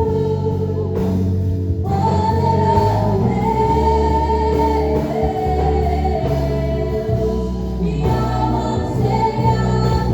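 Gospel worship music: singing over a band accompaniment, with long held sung notes.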